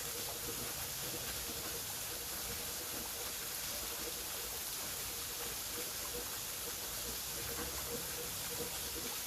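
Waterfall: a steady, even rush of falling water with a strong hiss and no breaks or changes.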